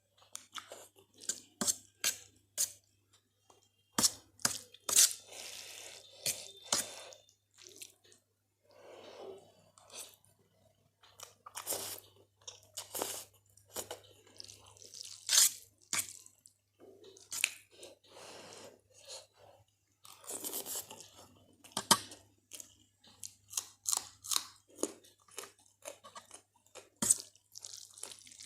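Close-up chewing of crunchy Kurkure corn snacks with spicy Maggi noodles: irregular sharp crunches, sometimes several a second, with softer wet chewing in between. A faint steady low hum lies underneath.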